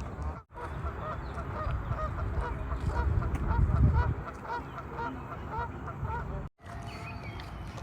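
A flock of birds calling, many short calls repeating and overlapping, over a low rumble that swells about halfway through. The sound drops out briefly near the start and again near the end.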